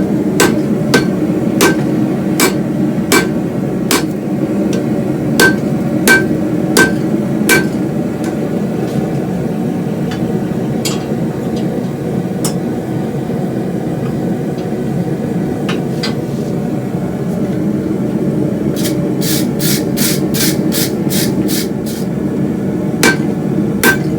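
Hammer blows on a hot railroad spike on the anvil, with a ringing note on each strike. The blows come about one every 0.7 s at first, then a few spaced strikes, then a quick run of about four a second, then two more. A steady roar of the gas forge's burner runs underneath.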